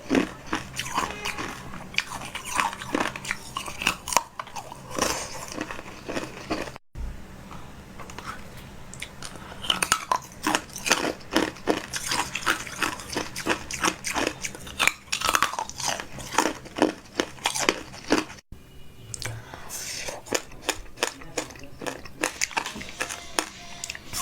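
Crunchy biting and chewing of food close to the microphone, a dense run of crackling bites. The sound drops out abruptly twice, about 7 and 18 seconds in.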